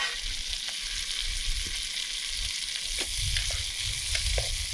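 Corned beef and onions sizzling steadily in a hot Trangia pan, with a few short knocks and scrapes from a wooden spoon as the meat is pushed off the lid and moved around in the pan.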